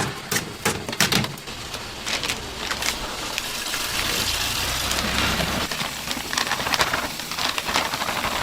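Deep-frying oil sizzling in a steady hiss, with sharp clinks and clatter of metal utensils, most of them in the first few seconds and again near the end. A low rumble runs underneath for a couple of seconds in the middle.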